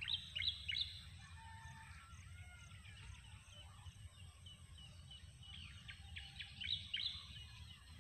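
Birds chirping in short, sharp, falling calls, a quick run of three right at the start and another cluster near the end, over a steady low background rumble.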